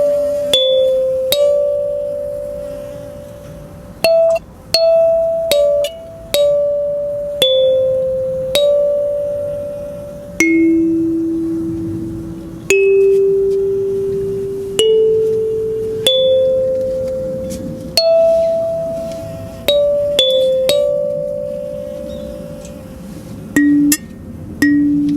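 Mahogany-bodied Haru kalimba played solo: a slow melody of single plucked metal tines, each note ringing out and fading before the next, with a few quicker notes near the end.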